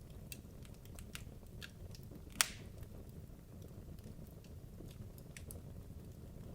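Wood logs burning in a fireplace: a steady low rumble of flame with scattered small crackles and pops, and one loud sharp pop about two and a half seconds in.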